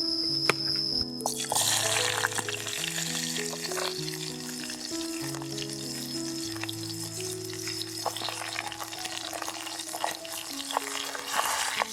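Food frying in a pan, a steady sizzle with small crackles that starts about a second in, over background music.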